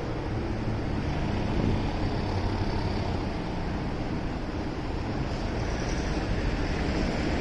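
Motorcycle riding on the road: steady engine hum under wind noise on the microphone.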